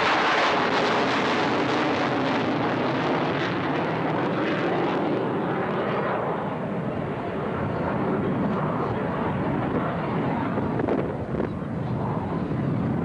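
F-16 fighter jet flying past in a display, a continuous jet roar that is loudest at the start and turns duller about halfway through as the aircraft draws away.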